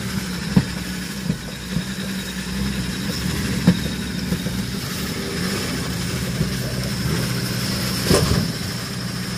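An off-road SUV's engine running steadily at a low idle, with a few short knocks and a louder clunk about eight seconds in.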